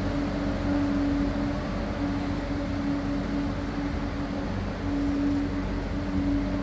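Train in a station running with a steady hum made of low tones over a constant rumble.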